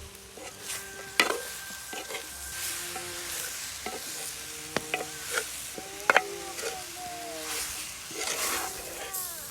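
A spoon stirring pork curry frying in a pan: a steady sizzle broken by sharp clinks and scrapes of the spoon against the pan, several of them.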